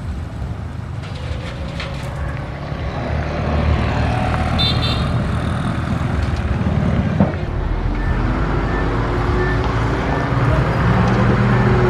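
Komatsu D21P bulldozer's diesel engine running under load, growing louder a few seconds in and rising and falling in pitch near the end, with one sharp clank about seven seconds in.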